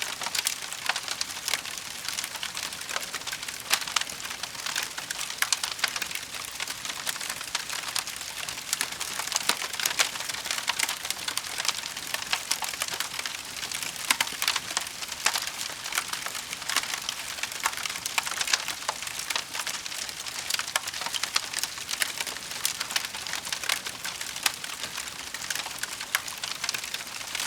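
Wood fire burning in a fireplace: a constant fast crackling and popping of logs over a steady hiss.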